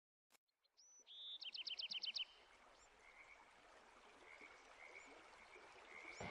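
A high chirping animal call: one high note about a second in, then a fast run of about eight chirps, then faint short whistles repeating at a slow pace.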